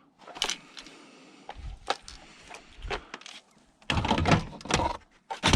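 Knocks and clatter of scrap being handled: several sharp knocks and clicks, then about a second of loud rumbling clatter about four seconds in, and another heavy knock at the end.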